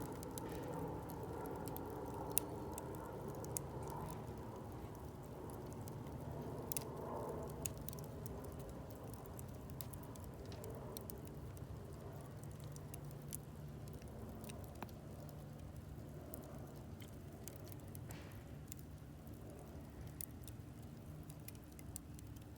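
Wood campfire crackling: scattered sharp pops and ticks over a steady low hiss, with the loudest pop about two seconds in.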